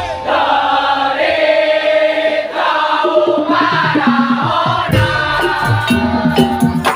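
Madurese daul (tong-tong) music: a held, wavering melody line with the drums dropped out, then the kendang and percussion coming back in about four seconds in.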